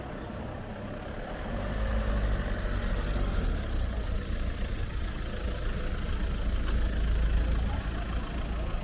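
A motor vehicle's engine running close by, its low rumble growing louder about one and a half seconds in and then holding steady.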